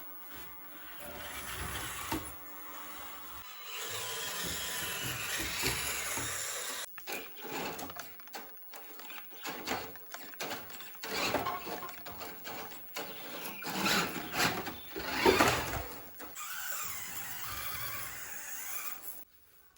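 Small electric motors of toy remote-control cars whirring, with plastic clattering and knocking as the cars crawl over obstacles, busiest in the second half.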